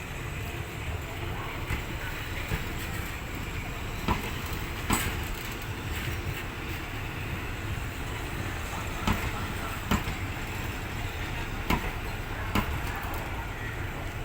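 Low, steady rumble of a train while its locomotive is being swapped. Sharp knocks come in three pairs, each pair under a second apart.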